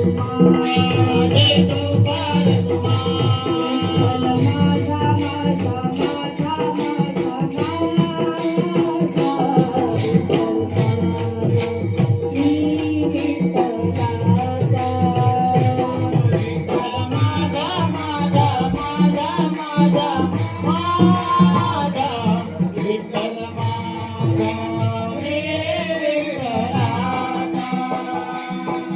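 Devotional bhajan music: voices singing a wavering melody over steady held tones, with a fast, even beat of jingling hand percussion.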